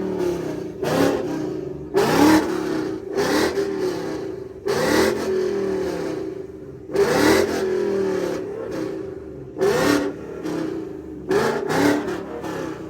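Ford Mustang's engine being revved hard again and again, with short throttle blips about every second, each jumping up in pitch and falling back.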